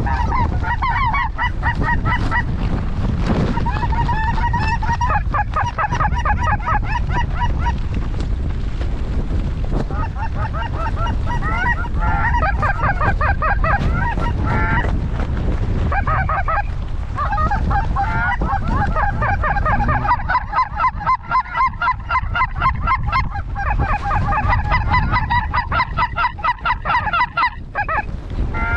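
A large number of lesser snow geese calling, a dense chorus of short high honks overlapping continuously, thinning briefly about halfway and just before the end. Wind rumbles on the microphone underneath.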